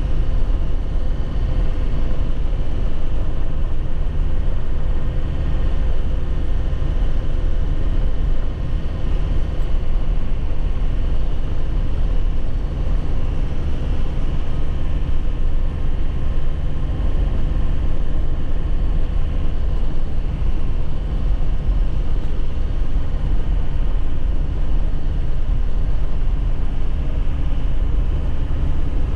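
2001 Nissan Cabstar 106Le light truck's engine running steadily while driving, with low rumbling road noise.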